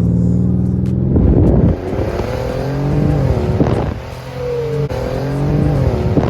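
Twin-turbo Mercedes-Benz engine pulling hard under full throttle. The revs climb and drop sharply at two gear changes, with a short crackle about a second in.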